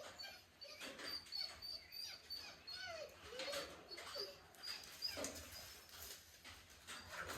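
A dog whining in a few short whimpers that bend up and down in pitch, with birds chirping in the background.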